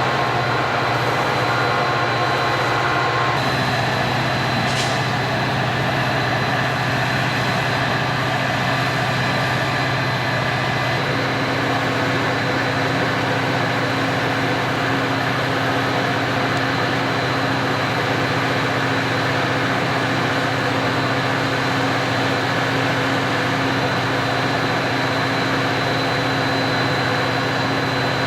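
A train running past with a steady, continuous noise from the rail equipment. The tones in it shift a few times along the way.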